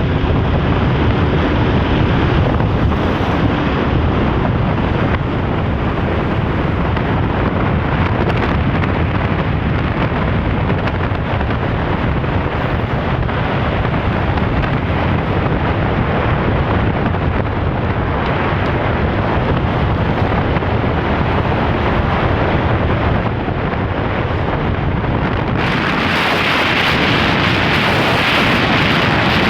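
Wind blasting over the microphone of a moving motorcycle rider: a dense, steady rush, heaviest in the low rumble. About 26 seconds in, it turns brighter and hissier.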